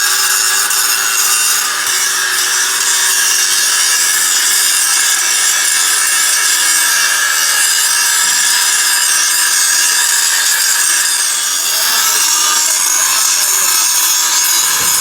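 Power tool working metal without a break: a continuous loud hiss over a steady motor tone that dips slightly now and then.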